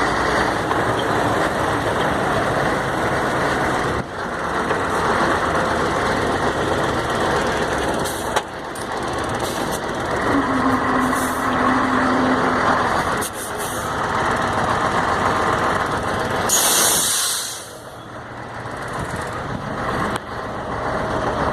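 Mercedes-Benz 1634 truck under way, its diesel engine and drivetrain running steadily with brief dips in level a few times as the throttle changes. The freshly rebuilt differential no longer growls on lift-off. About seventeen seconds in comes a short hiss of air from the truck's air brakes.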